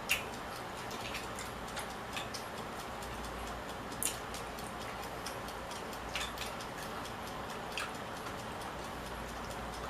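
Eating sounds from a meal of mussels and shrimp pasta: scattered sharp clicks at uneven intervals, the loudest at the start and about four seconds in, over a steady background hiss.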